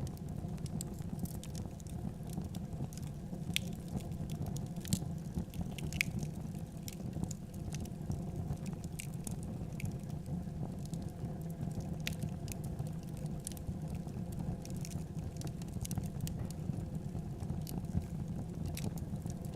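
Wood fire crackling in a fireplace: irregular sharp pops and crackles over a steady low sound of burning.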